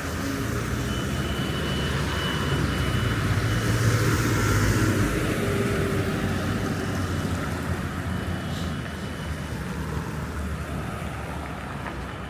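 Street traffic: a steady low rumble and hiss of passing vehicles, one growing louder to a peak about four seconds in and then fading away.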